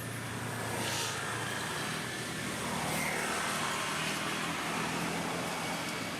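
A motor vehicle running past: a steady engine hum and road noise at an even level.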